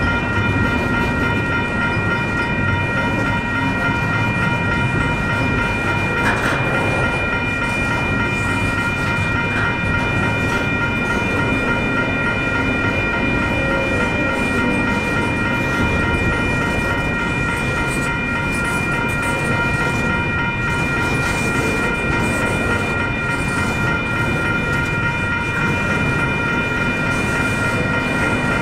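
Long intermodal freight train rolling slowly past, its cars rumbling on the rails with a steady high-pitched metallic squeal.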